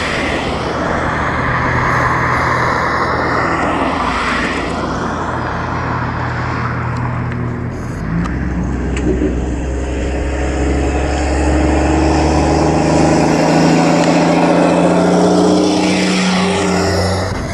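Propeller aircraft engines at full takeoff power, a steady pitched drone whose pitch climbs through the second half as the plane accelerates past.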